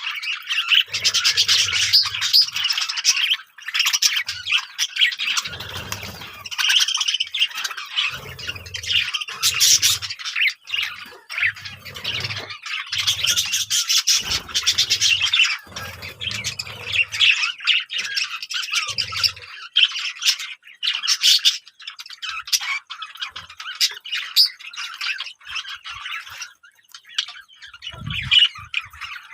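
Many birds chirping and squawking together, with dense, overlapping calls that thin out after about twenty seconds.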